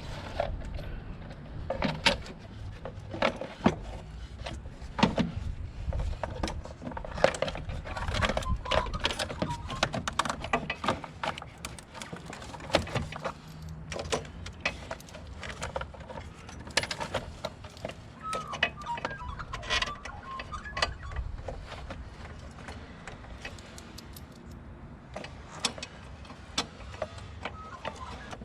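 Irregular clicks, knocks and rattles of hard objects being handled, over a steady low hum.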